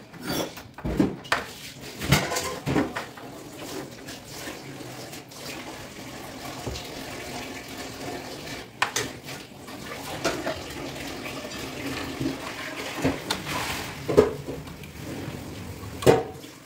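Irregular metal knocks and clinks with rubbing and scraping as a gas stove's control valve is worked loose and handled.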